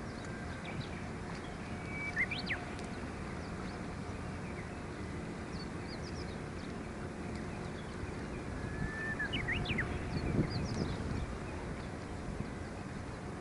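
Wind buffeting the microphone with a steady low rumble, while a bird gives short, sharply gliding calls twice, about two seconds in and again around nine to ten seconds, with faint higher chirps between.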